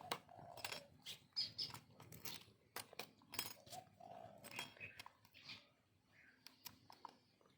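Puppy giving short, faint whimpers and squeaks, among many sharp clicks.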